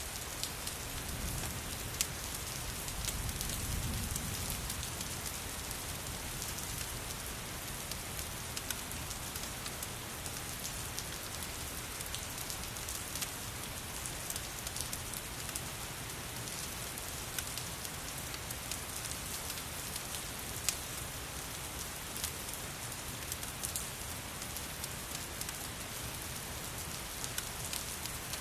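Steady rain mixed with a crackling fireplace: an even hiss with scattered sharp pops and ticks throughout, and a soft low rumble from about one to four seconds in.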